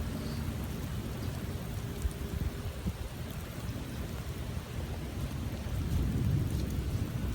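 Rain falling during a tropical storm, with a continuous low rumble under it.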